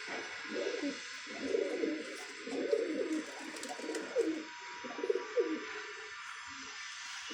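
Domestic pigeons cooing, several low calls in a row with some sliding in pitch, over a steady background hiss.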